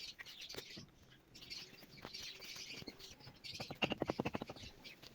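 Caged birds chirping, a busy overlapping twitter, with a quick rattling run of clicks a little past the middle.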